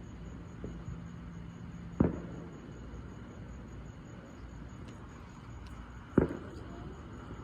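Two sharp firework bangs about four seconds apart, each trailing off briefly.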